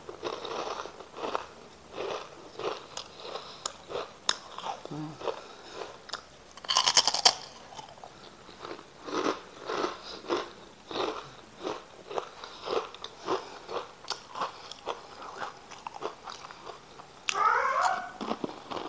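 Close-up crunchy chewing of rengginang, fried glutinous-rice crackers: a louder crunching bite about seven seconds in, then steady crunching at about two chews a second.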